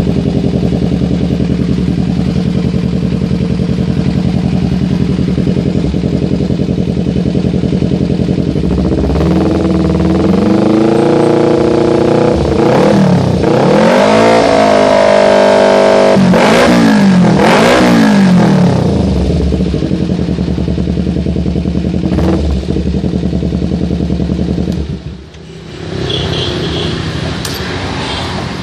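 Kawasaki Ninja 250 FI parallel-twin engine running through a Proliner aftermarket muffler on a custom short pipe: idling steadily, then revved up and down repeatedly for about ten seconds before settling back to idle.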